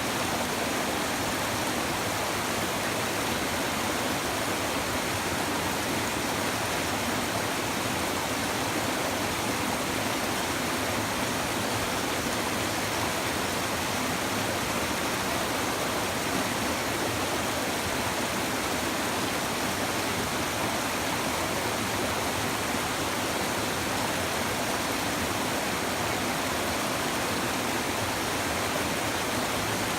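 A shallow river babbling over stones, running steady and unbroken.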